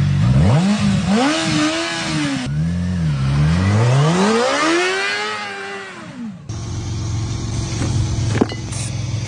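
A vehicle engine revved hard several times, its pitch rising and falling in quick swells. About six and a half seconds in, the sound changes abruptly to a steadier, lower engine note, with a sharp click near the end.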